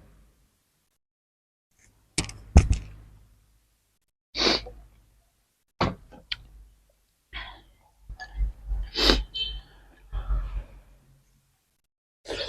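Someone eating noodle soup: a string of short, separate sounds with quiet gaps, sharp clicks and breathy sniffing or slurping bursts.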